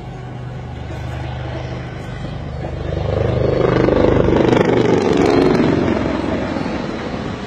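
HAL Dhruv display helicopters flying past with a steady rotor and engine sound. The sound swells to its loudest about four seconds in, then fades away.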